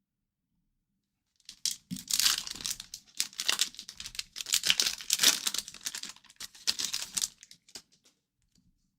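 A hockey card pack's wrapper being torn open and crinkled by hand. It starts about a second and a half in and continues as a burst of irregular crackling for roughly six seconds.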